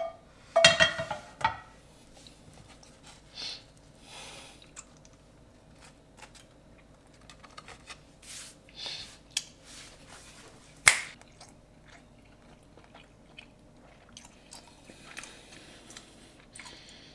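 A person biting into and chewing a cheese omelette on an English muffin, with scattered soft mouth clicks and one sharp click about eleven seconds in.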